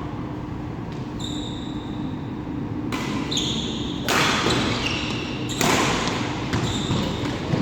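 Badminton doubles play in a reverberant hall: shoes squeak on the court floor a few times as players move. There are louder noisy bursts starting about four and five and a half seconds in.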